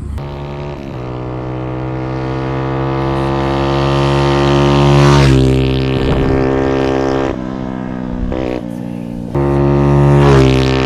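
Honda Ape minibike's single-cylinder four-stroke engine, bored up with a Kitaco 82cc kit, running at full throttle. Its revs climb steadily for about five seconds, then drop and rise again.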